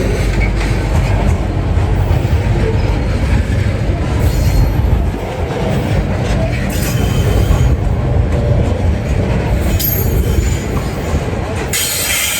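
Freight train rolling past on the track: a steady low rumble of wagons on the rails, broken several times by short bursts of higher-pitched noise from the wheels.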